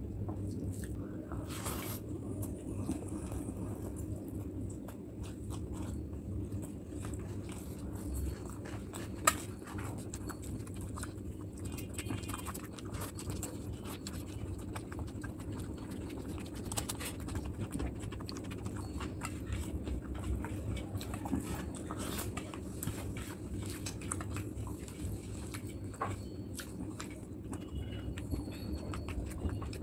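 Close-miked eating with the hands: wet chewing and lip smacking of rice and curry, with scattered small clicks over a steady low hum, and one sharp click about nine seconds in.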